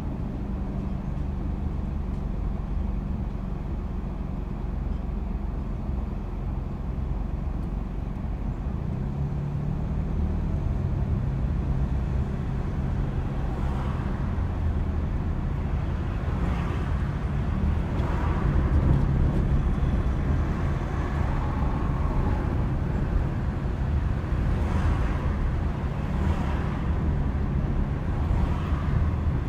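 A car being driven: a steady low engine and road rumble, with several short rushes of noise in the second half.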